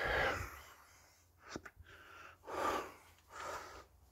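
A person breathing heavily close to the microphone: four noisy breaths about a second apart, with a short click between the first two.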